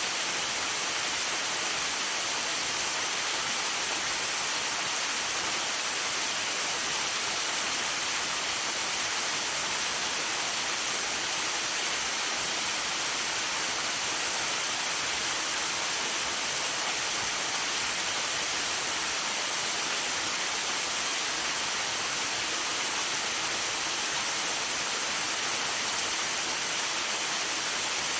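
Waterfall rushing steadily: an even, unbroken hiss, strongest in the high range with little low rumble.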